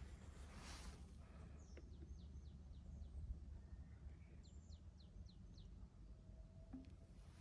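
A bird calling twice, each call a quick run of four or five high notes, each note sliding down in pitch, over a faint low rumble.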